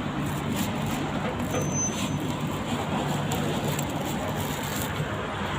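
Steady street traffic noise with the constant low hum of vehicle engines, and one brief high-pitched beep about two seconds in.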